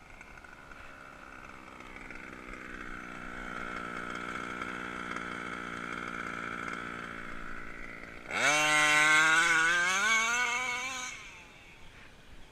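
HPI Baja RC car's 29cc two-stroke reed-valve petrol engine running at a steady pitch and growing louder, then about eight seconds in opening up to full throttle: a loud, high-revving run whose pitch climbs for about three seconds before it falls away.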